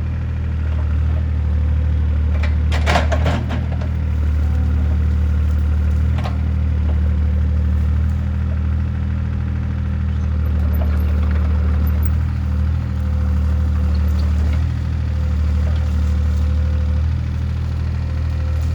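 Mini excavator's diesel engine running steadily at a constant speed. A brief cluster of sharp knocks comes about three seconds in, and a single knock around six seconds.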